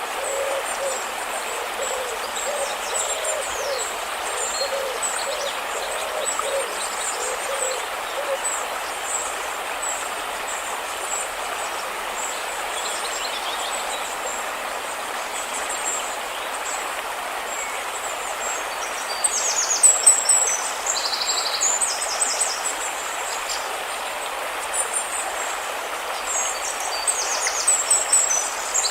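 River water rushing steadily, with small birds chirping high above it. For the first several seconds a low call repeats about twice a second, and louder bird trills come about two-thirds of the way in and near the end.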